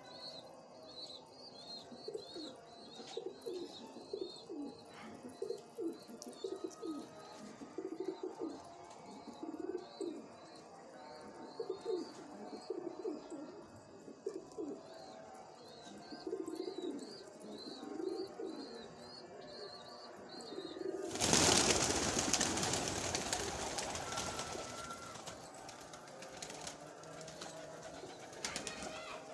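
Domestic pigeons cooing over and over, with a series of quick, high chirps running above them. About two-thirds of the way in, a loud rushing noise starts suddenly and fades away over several seconds.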